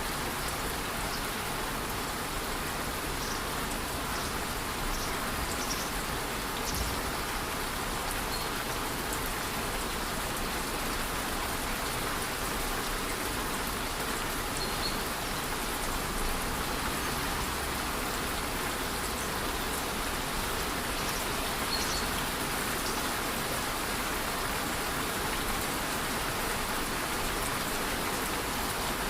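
Steady light rain over a rainforest waterfall, an even hiss of falling water, with a few faint, short, high chirps now and then.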